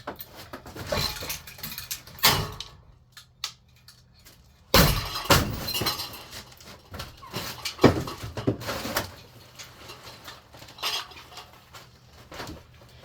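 A golf club hitting a cheap ceiling fan and breaking it apart: a string of sharp cracks and knocks with pieces rattling and clattering. The loudest hit comes about five seconds in.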